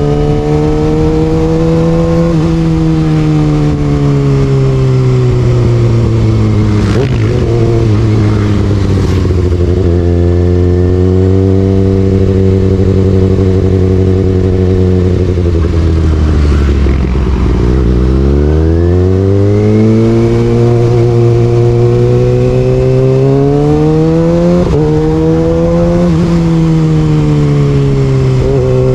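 Kawasaki Ninja ZX-6R inline-four running through an Austin Racing exhaust while riding, its pitch rising and falling with throttle and gear changes. About halfway through the engine note sinks low, then climbs steadily again.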